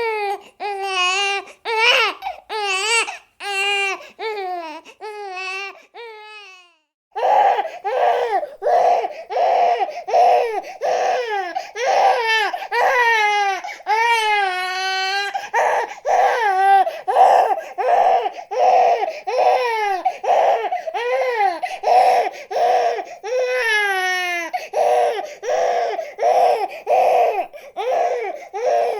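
Infant crying in repeated wailing cries, roughly two a second. After a short break about seven seconds in, the crying goes on as a string of short, rapid cries with more echo around them.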